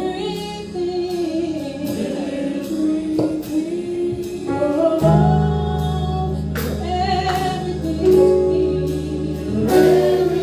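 Gospel worship song sung by a choir and congregation, with instrumental backing; a steady low bass note enters about five seconds in.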